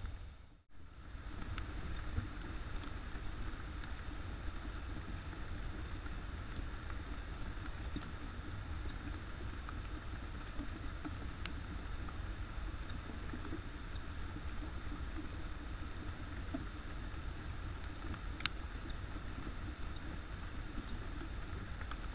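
Steady rain falling on leaves and the forest floor, picked up by a trail camera's microphone with a low rumble underneath. A brief dropout about half a second in, and a couple of faint clicks later on.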